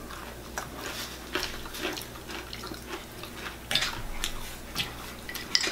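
People chewing crispy fried chicken close up, with irregular wet mouth clicks and lip smacks.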